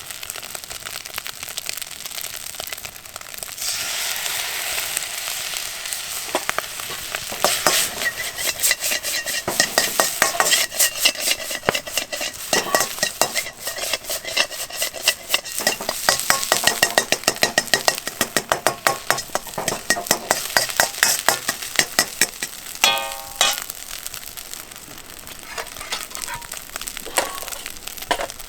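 Fried rice sizzling in an iron wok, stir-fried with a metal utensil that clacks and scrapes against the pan many times a second. The sizzle starts a few seconds in, and the quick, sharp clacking of the stir-frying takes over from about a quarter of the way through.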